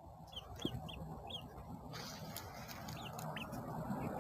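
Small birds cheeping: short high chirps, a few a second at first and then more scattered. A faint hiss grows behind them.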